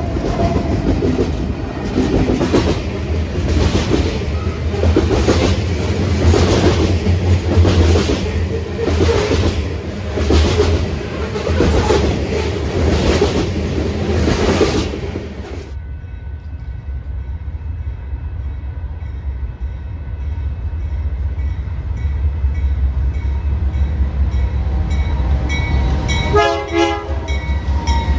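Diesel-hauled train passing close by, a loud rush of wheel noise with regular clicks of the wheels over the rails about every second and a low engine drone. About halfway through it cuts off suddenly, leaving a quieter steady rumble, with a short pulsing signal near the end.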